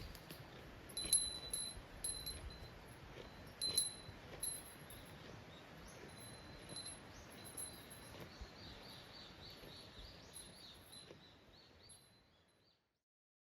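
Outdoor ambience: a faint steady hiss with repeated short, high chirping calls, fading out near the end.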